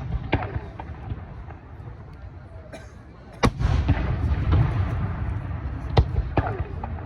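Aerial fireworks bursting: three sharp bangs, near the start, about halfway and about a second before the end, each followed by a low rolling rumble, with smaller crackles between.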